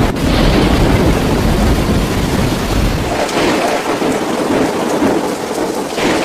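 Thunderstorm with heavy rain pouring down steadily and a deep rumble of thunder that is strongest over the first three seconds, then eases.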